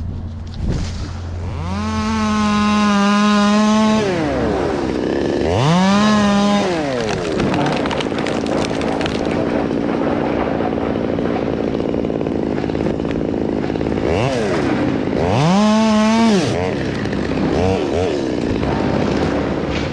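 Stihl 200T top-handle two-stroke chainsaw revving up to full throttle in three long bursts, dropping back between them, with a couple of shorter blips near the end.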